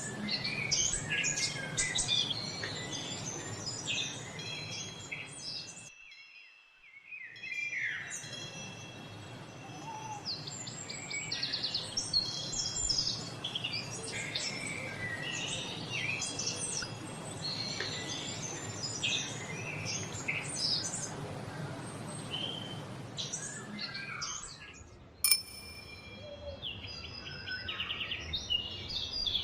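Many songbirds chirping and singing over each other, with short calls and trills, over a steady background noise. The sound drops out briefly about six seconds in, and there is a single sharp click about 25 seconds in.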